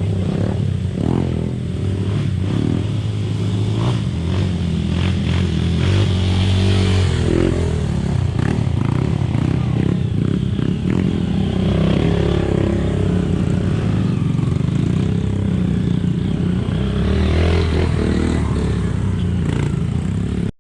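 ATV engines running and revving close by, the engine note rising and falling, with some clattering.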